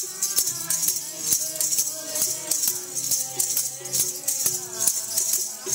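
Sikh kirtan music: held pitched tones and singing over a jingling metal percussion that keeps a steady beat of about two strokes a second.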